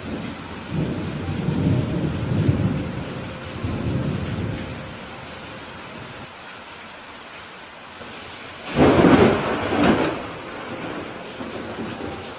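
Steady rain with thunder: a low rolling rumble over the first few seconds, then a louder, sharper thunderclap about nine seconds in that dies away after about a second and a half.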